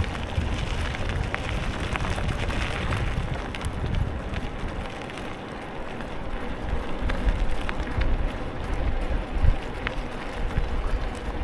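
Wind rushing over an action camera's microphone on a moving bicycle, a steady low rumble with scattered small clicks.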